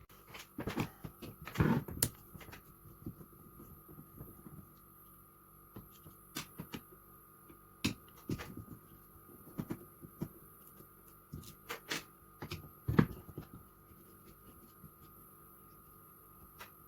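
Irregular clicks, knocks and clatter of objects being handled and set down, over a faint steady hum. The loudest is a single thump about thirteen seconds in.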